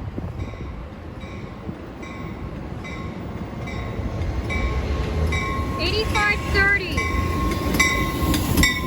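Metra commuter train pulling into a station, its warning bell ringing steadily about once every 0.7 seconds over a low rumble that grows louder as it nears. From about three seconds in a steady high whine joins, with brief voices a little past the middle.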